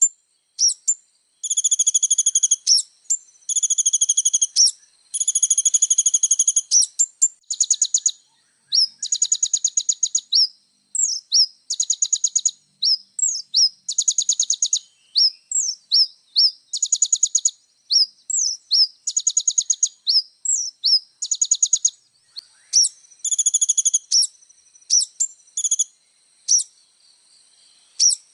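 Kolibri ninja sunbird singing a long, high-pitched song: fast buzzy trills of rapid even notes, each trill about a second long, alternating with quick sharp upslurred chips, repeated with short breaks.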